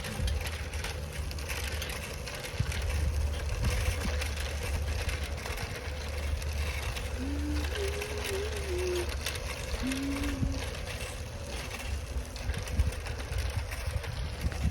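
Bicycle ride noise: a steady low wind rumble on the microphone with rattling from the bike and road. A few short faint pitched tones come about halfway through.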